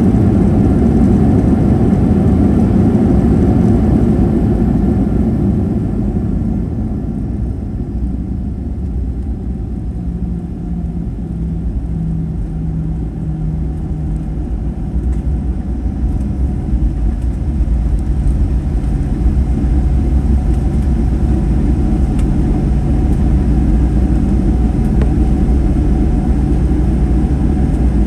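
Cabin noise inside a Boeing 737-800 in flight: a steady low rumble of its CFM56-7B engines and airflow. It eases off about six seconds in and builds back up over the second half.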